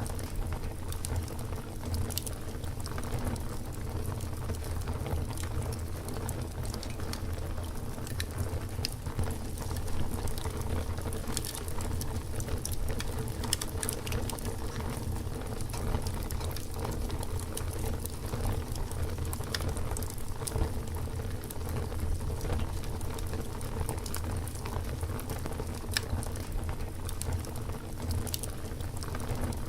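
Campfire burning with a steady low rumble and frequent small, sharp crackles and pops from the burning wood.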